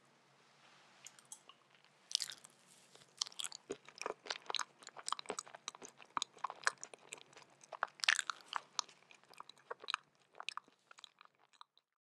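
Close-up chewing of a bite of red velvet omelet cake: irregular small crackly clicks, several a second, starting about two seconds in and stopping just before the end.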